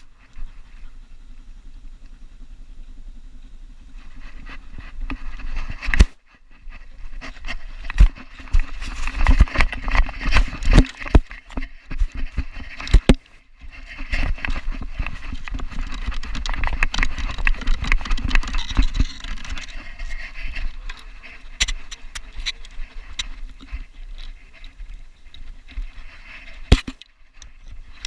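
Handling and movement noise from a GoPro strapped to a running Belgian Malinois: a rumbling, scuffing bed broken by many irregular knocks and clicks as the camera jolts with the dog's movement.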